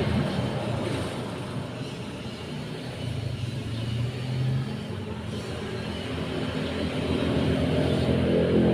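Road traffic: a passing motor vehicle's engine fades away, then another approaches and grows louder near the end.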